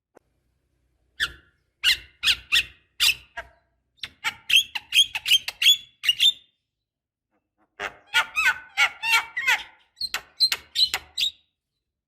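Javan myna (jalak kebo) singing in loud bursts of sharp, squeaky whistles and chattering notes, in several quick phrases with short silent gaps between them.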